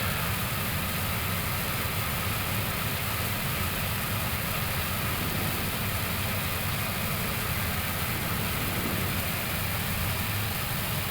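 Steady hiss with a low hum inside an Airbus A321neo cockpit, its engines running at idle during pushback.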